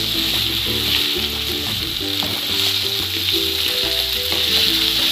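Chopped okra sizzling in hot oil in a steel pot on a gas flame, stirred with a wooden spatula: a steady frying hiss with the scrape and rustle of the pieces being turned.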